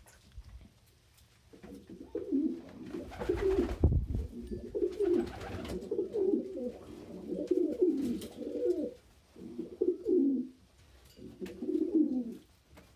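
Domestic pigeons cooing: repeated low, warbling coo phrases that begin about a second and a half in and continue with short gaps.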